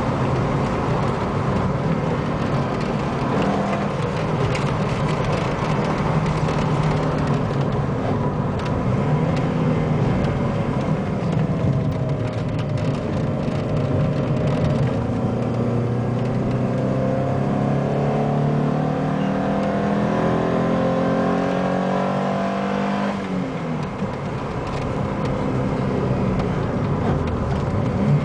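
Alfa Romeo 33 1.7 16v's flat-four engine heard from inside the cabin at speed on track, with road and wind noise underneath. The engine note climbs steadily for several seconds and then drops abruptly about two-thirds of the way through.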